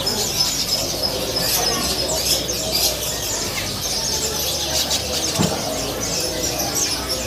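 Many caged songbirds chirping and twittering at once in a dense, high-pitched chorus.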